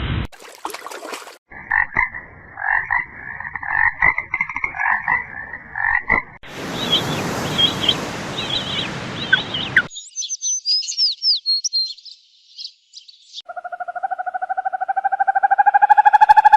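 A string of short animal-sound clips, led by frogs croaking over and over for several seconds. Then come high chirps over a hiss, and near the end a pulsing tone that slowly rises in pitch.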